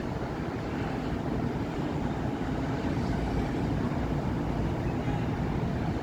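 Steady city road traffic on a busy avenue: a continuous wash of car engines and tyre noise, heaviest in the low range, with no single vehicle standing out.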